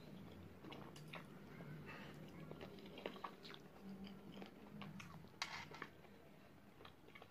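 Close-up chewing and biting of sauce-coated spicy fried chicken wings, with scattered short mouth clicks and smacks.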